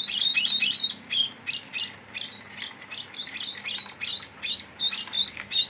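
Sparrows chirping: a quick string of short, high chirps that thins out in the middle, then picks up again to about three chirps a second.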